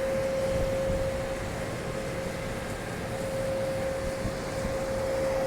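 Steady mechanical drone of car wash machinery with a constant mid-pitched hum, over a low rumble.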